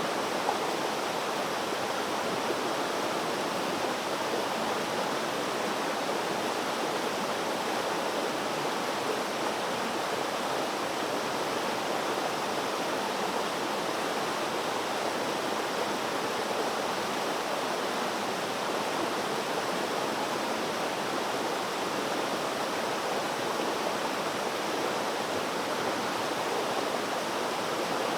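Flowing water, a steady, even rushing of a stream or small waterfall with no breaks or changes.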